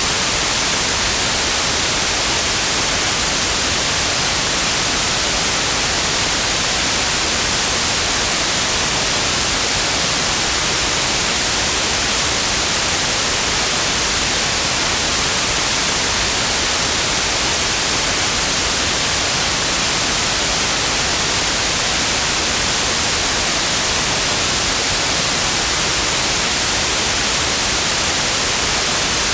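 Synthetic white noise: a steady, even hiss, brightest in the high frequencies, with no change or variation.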